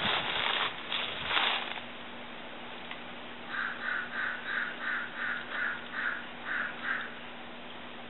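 A bird calling a quick, even run of about ten short calls, roughly three a second, in the second half. Before that come two brief rushes of noise, the louder about a second and a half in, over a faint steady hum.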